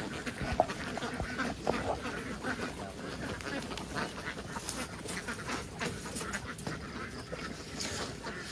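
A large flock of domestic ducks quacking continuously, many birds calling over one another.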